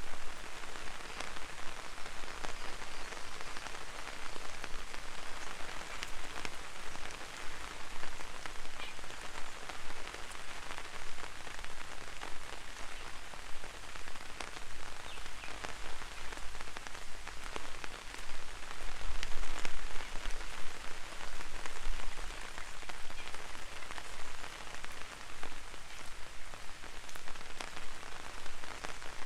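Gentle rain falling on an umbrella: a steady hiss of rainfall with many separate drops ticking on the canopy, a little heavier about two-thirds of the way through.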